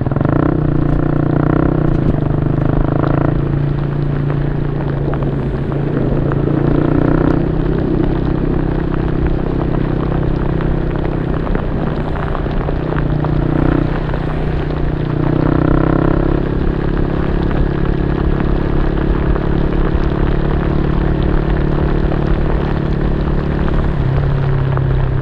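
Yamaha Y15ZR's 150cc single-cylinder four-stroke engine running through an aftermarket YYPANG SD3 exhaust, idling steadily with a few short throttle blips, about four in all.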